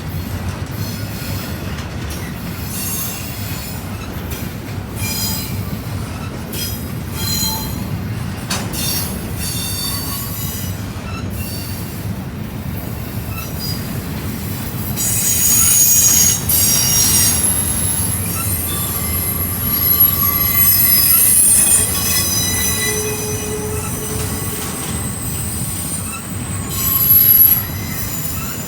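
Norfolk Southern intermodal freight cars rolling past with a steady rumble of wheels on rail, overlaid by shrill steel wheel squeal. The squeal grows louder about halfway through and peaks sharply near the end.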